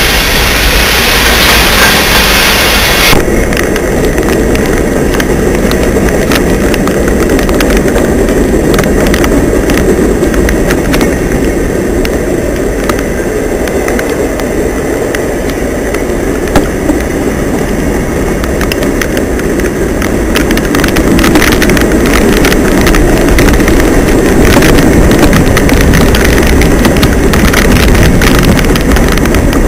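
Freight cars of a long train rolling past, a steady loud rumble of steel wheels on rail with frequent clicking over the joints, and a single sharp clank just past halfway.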